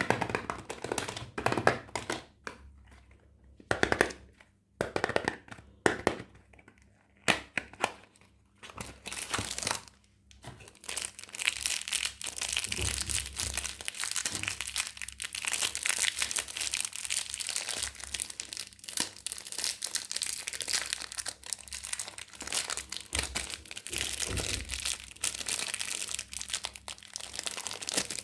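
Wrapper being crinkled and torn open off a bar of soap. There are separate crackles and handling noises at first, then continuous crinkling from about ten seconds in.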